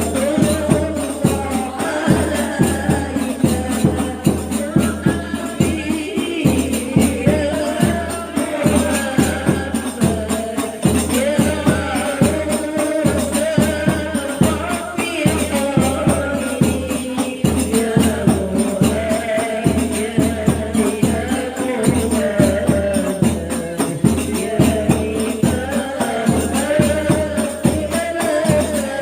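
Women singing sholawat together over hadroh frame drums, with a fast, steady beat and a jingling rattle on top.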